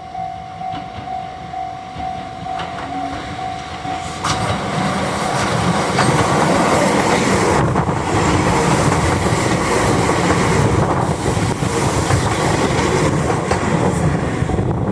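A level-crossing warning bell rings in a steady repeating beat. About four seconds in, an Enoshima Electric Railway 2000 series train comes past close by, and its running noise drowns out the bell.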